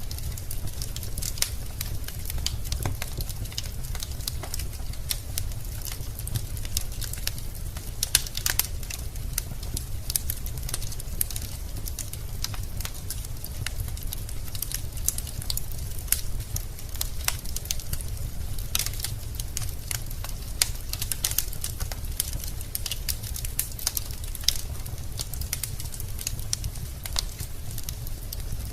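Wood fire burning in a fireplace, logs crackling with irregular sharp pops over a steady low rumble of the flames.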